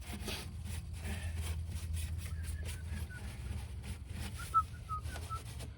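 Rag wiping and handling noises on a car's intake manifold, light rubbing and clicks over a steady low hum, with a few short high chirps about halfway through and again near the end.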